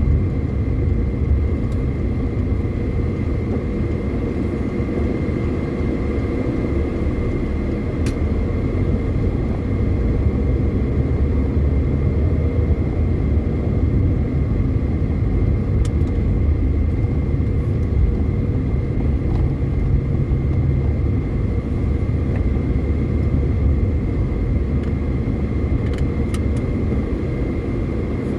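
Car driving on a highway: steady low engine and road rumble, with a faint steady whine and a few faint clicks.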